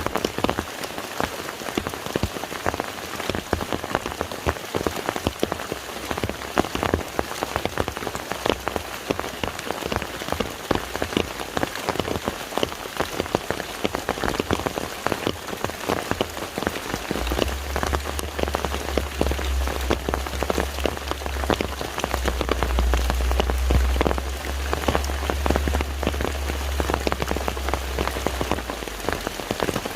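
Rain falling on a lake, a dense, steady patter of countless drops hitting water. A deep low rumble joins a little past halfway and fades out shortly before the end.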